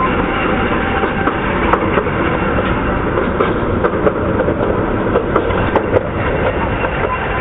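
Running noise of a 15-inch-gauge miniature railway train ridden aboard: a steady rumble of wheels on the track with a few scattered clicks.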